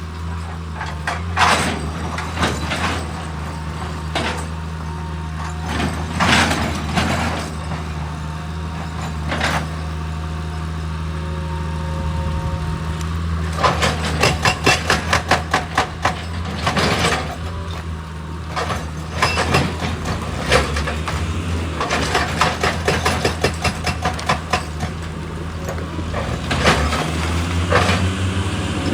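A heavy machine's engine running at a steady low hum. Over it come scattered sharp knocks and two longer runs of evenly spaced metallic clanks, about three a second, the second run near the middle and the other later on.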